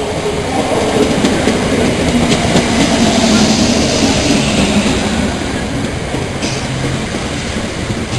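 A train running on the tracks: a rumble of wheels on rail that grows loudest about three seconds in, then eases off.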